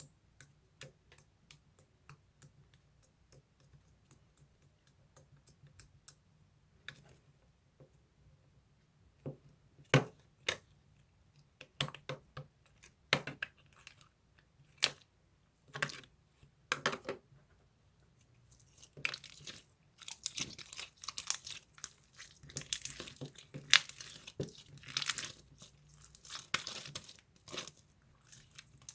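Scattered sharp clicks and taps, then from about two-thirds of the way in a dense stretch of crinkling and tearing, like a wrapper or packaging being handled and torn.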